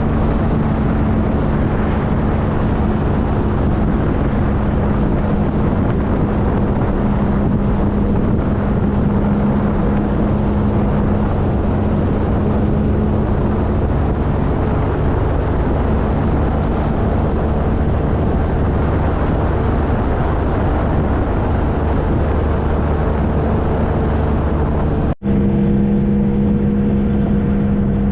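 Triumph Trophy SE's three-cylinder engine running at a steady cruise under a constant rush of riding noise. About 25 seconds in the sound drops out for an instant, and then the engine note carries on steadily.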